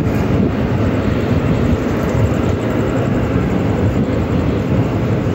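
Express train running as it pulls out of a station, heard from aboard: a steady, loud rumble of the coaches and their wheels on the rails.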